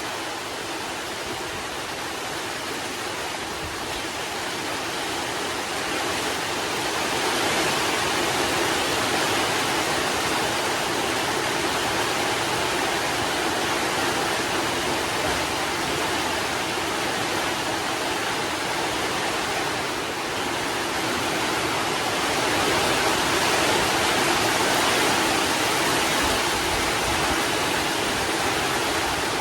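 Steady rain shower: a dense, even hiss that grows louder over the first several seconds, then holds.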